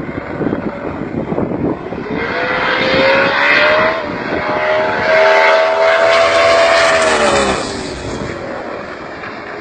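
Drag car's engine at full throttle down the strip, its pitch climbing, with a gear change about four seconds in, then fading away near the end.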